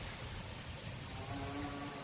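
Heavy rain hissing steadily under a low, gusting wind rumble. Past the middle, a short pitched sound with several overtones rises over the rain for under a second.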